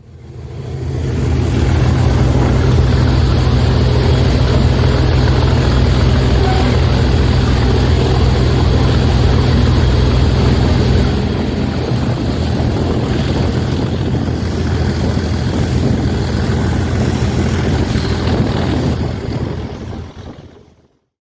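Diesel locomotive engine working hard, a loud, heavy, low drone that eases somewhat about halfway through, then fades.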